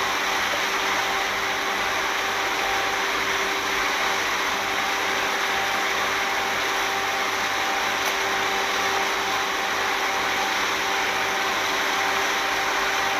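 A motor running steadily: a constant hum under a loud, even rushing noise.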